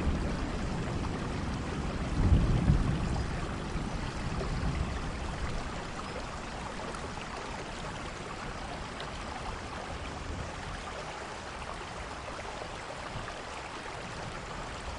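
Steady rain with a low rumble of thunder that swells about two seconds in and fades away over the next few seconds.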